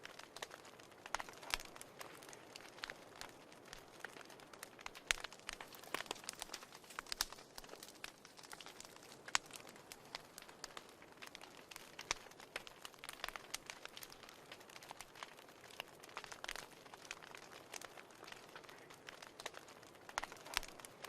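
Wood fire burning in a fireplace: a soft steady hiss with frequent irregular crackles and pops.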